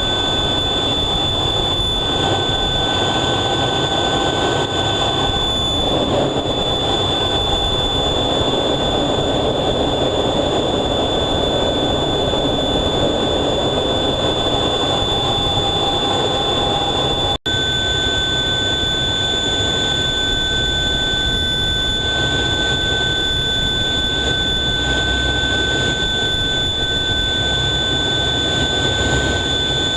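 F/A-18 jet engines running steadily as heard inside the cockpit, a dense rush with a steady high-pitched whine over a low rumble. The sound cuts out for an instant partway through and then resumes with a slightly different whine.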